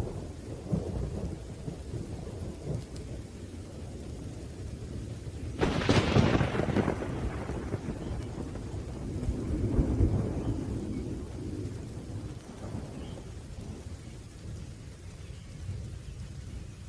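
Thunderstorm with steady rain and low rolling thunder. A sharp thunderclap breaks in about a third of the way through and rumbles away over a couple of seconds, and a second roll of thunder swells up a few seconds later.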